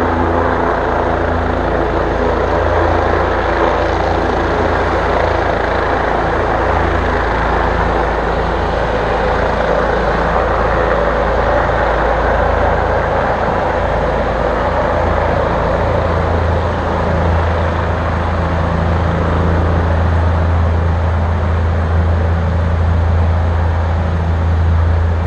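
Helicopter landing close by, its rotor and turbine engine running loud and steady with a deep, even low beat.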